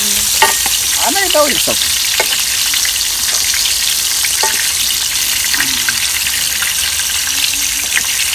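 Eggplant slices sizzling in hot oil in an electric skillet as they are shallow-fried, a steady hiss with scattered small pops. A wooden spatula turns and scrapes the slices in the pan.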